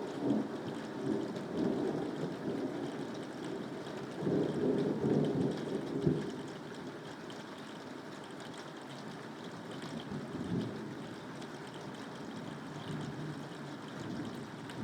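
Steady rain with thunder rumbling in slow swells, the loudest rumble about four to six seconds in.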